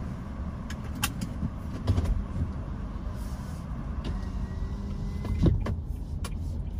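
Car engine running at low speed as the car pulls away slowly, a steady low rumble heard from inside the cabin, with a few light clicks.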